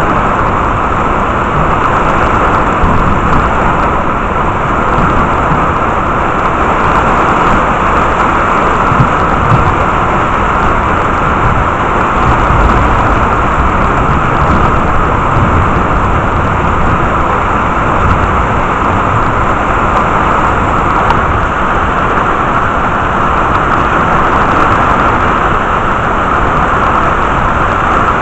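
Heavy rain falling steadily during a thunderstorm, a loud, even rush of noise.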